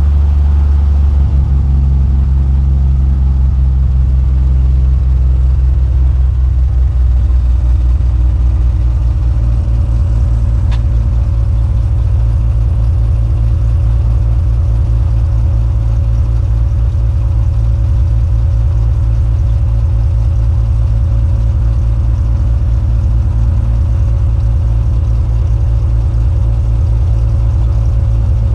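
Cessna 182 piston engine and propeller running steadily and loud, the engine note shifting about nine seconds in. A single short click near the middle.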